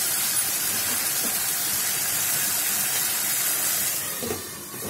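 Tomato-puree and spice masala sizzling steadily in hot oil in a kadhai as it is stirred with a spatula. About four seconds in a glass lid is set on the pan with a light knock, and the sizzle gets quieter.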